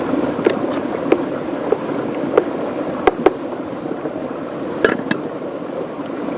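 Steady rushing of river water and rain, with a thin steady high tone over it and about eight sharp taps scattered through, two of them close together near the middle.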